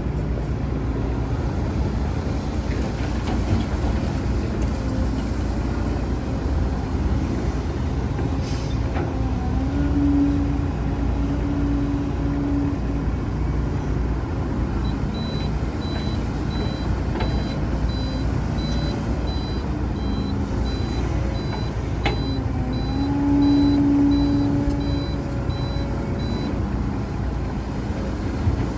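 Heavy diesel earthmoving machinery running steadily, its engine swelling twice under load. A reversing alarm beeps repeatedly through the middle part and stops near the end.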